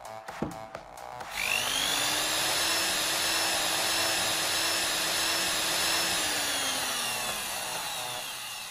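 Cordless drill motor whining up to speed about a second in, running steadily for several seconds, then slowly winding down near the end.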